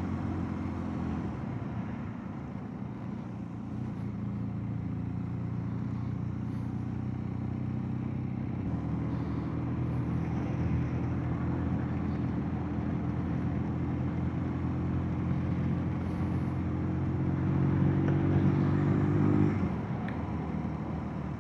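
Motorcycle engine running under way on the road, a steady note whose pitch creeps up and then drops suddenly near the end.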